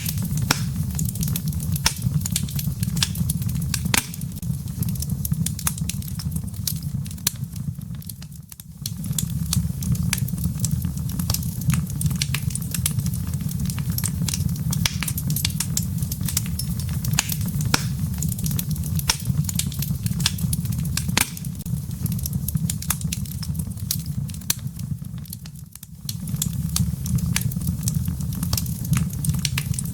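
Wood fire crackling in a fireplace: frequent sharp pops and snaps over a steady low rumble, which briefly drops away twice, about a third of the way in and near the end.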